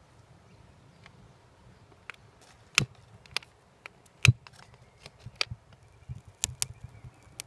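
Wood fire crackling, with irregular sharp pops, the loudest about three and four seconds in, over a low steady rumble.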